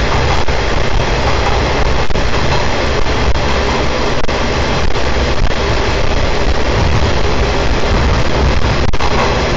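Watarase Keikoku Railway trolley train running through a long tunnel, heard from inside its open-air car: a loud, steady rumble and rush of wheels on rail and air, with a few faint clicks from the rails.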